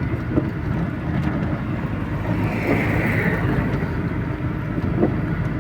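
Cab noise of a GAZelle light truck under way: a steady low engine and road rumble, with a brief hiss that swells and fades about halfway through.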